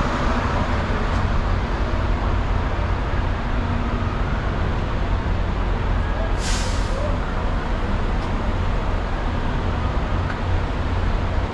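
Steady low rumble of a semi-truck's diesel engine and road noise heard inside the cab, with a short hiss of air a little past halfway through.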